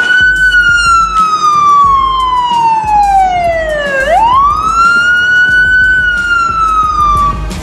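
Police car siren wailing: a tone falls slowly over about four seconds, sweeps quickly back up, then starts another slow fall and cuts off near the end.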